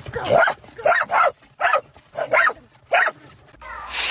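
A dog barking, about six short barks roughly half a second apart.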